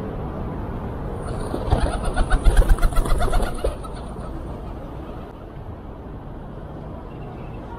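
A pigeon's wings flapping in a quick run of beats lasting about two seconds, over a steady background hum.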